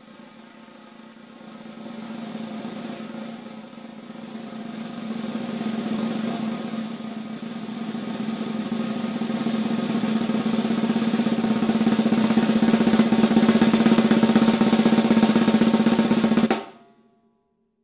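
Snare drum roll on a Gretsch Renown Purewood Hickory kit, a long crescendo that starts soft and swells in stages until it is loud. Near the end it stops abruptly and the drum rings out briefly into silence.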